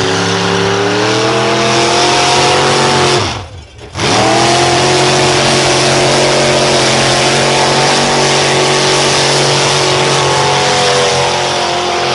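Engine of a pulling truck or tractor running at full throttle under heavy load, its pitch creeping slowly upward. It drops away abruptly about three seconds in and comes back at full power half a second later.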